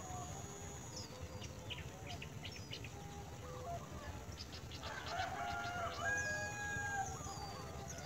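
Birds calling outdoors: runs of quick high chirps and thin whistles, then longer, lower held calls from about five to seven seconds in, the loudest part.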